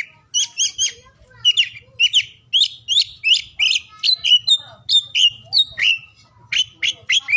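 Oriental magpie-robin (kacer) singing a fast, continuous string of varied whistles and sharp chirps, several notes a second, some rising and some falling in pitch, over a faint low hum.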